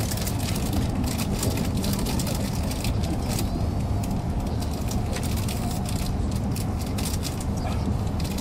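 Cabin running noise of an E5 series Shinkansen train at speed: a steady low rumble with light irregular clicks over it.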